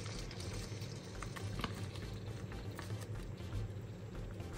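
Chicken and green curry paste sizzling and bubbling gently in an enamelled pan with freshly added coconut milk, with scattered small crackles.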